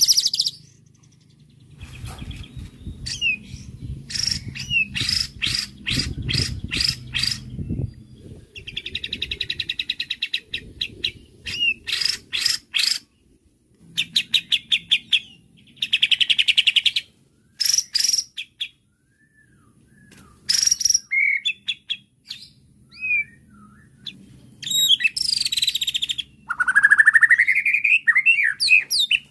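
White-rumped shama (murai batu) singing a varied, agitated song. Phrases come in bursts with short pauses: fast runs of repeated notes, buzzy chatters, and sliding whistles.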